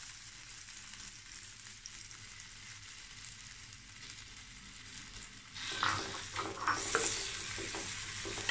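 Diced raw chicken sizzling in hot oil in a nonstick grill pan, a steady faint hiss. About five and a half seconds in, a wooden spatula starts pushing and stirring the pieces, scraping on the pan, and the sizzling gets louder.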